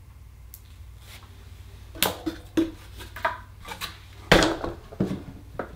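About half a dozen sharp clicks and knocks of hard objects being handled and set down, starting about two seconds in, the loudest a little after the middle.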